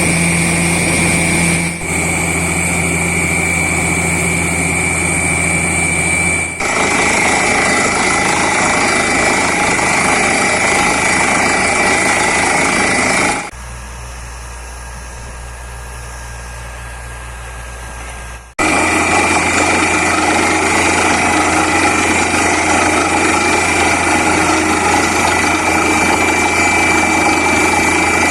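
Borewell drilling rig running with a loud, steady engine-and-machinery drone. The sound shifts suddenly several times, dropping to a quieter low hum for about five seconds in the middle before the full drone returns.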